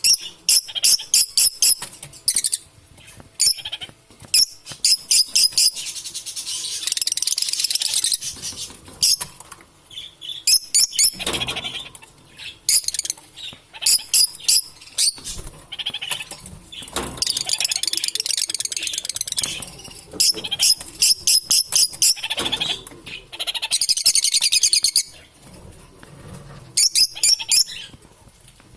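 Lovebirds chirping, with rapid trains of sharp, high-pitched notes broken by stretches of continuous shrill chatter.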